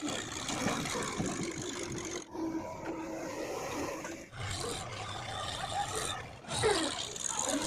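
Heavy machinery at work: a diesel engine running with scraping, heard in several short clips that cut abruptly from one to the next.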